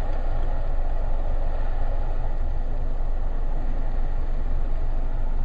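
Steady cabin noise of a Suzuki Swift Sport with its 1.6-litre four-cylinder engine idling and the air-conditioning fan blowing. It is an even, unchanging hum and rush of air.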